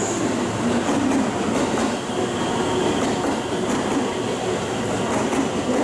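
Electric train moving along a station platform: a steady rolling roar with the clicking of wheels over rail joints.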